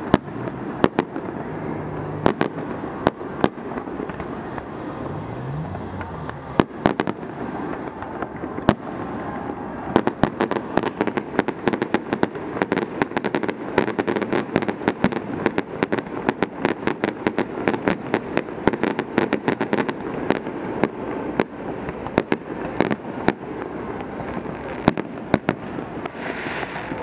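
Fireworks display: a continuous run of sharp bangs and crackles that grows denser about ten seconds in.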